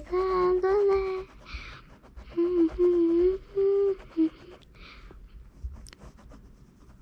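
A young girl humming a tune in long held notes, with a breath between phrases; the humming stops a little over four seconds in.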